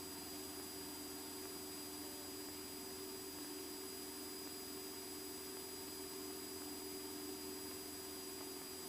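Steady electrical hum and hiss from a Cessna 172SP's cockpit intercom audio feed, with a few constant tones and no change throughout.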